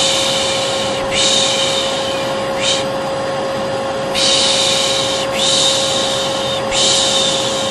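Vacuum cleaner running with a steady hum, overlaid by a person shushing 'shh, shh' over and over. Most shushes are about a second long, with a short 'sh' now and then. The two are layered as a calming white-noise sound for a baby.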